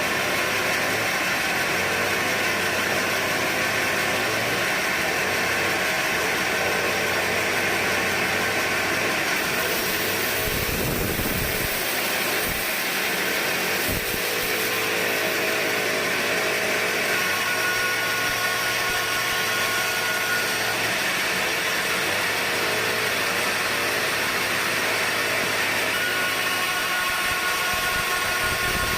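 Sawmill machinery running steadily: a dense, even mechanical noise with a faint steady whine, broken by a couple of low thumps about eleven and fourteen seconds in.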